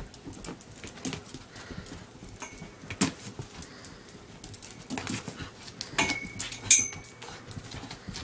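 A dog moving about, its steps clicking and knocking on a hard surface, with a short high squeal about six seconds in.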